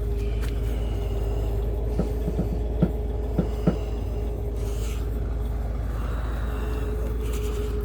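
Tow truck engine idling: a steady low rumble with a steady whine above it. A few short sharp clicks come about two to four seconds in.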